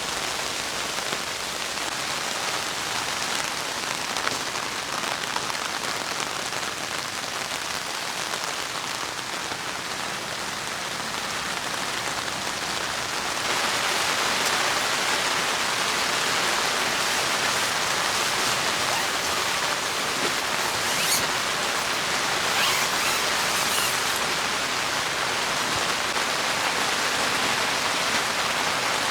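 Heavy rain falling steadily, a dense even hiss that turns suddenly louder about halfway through.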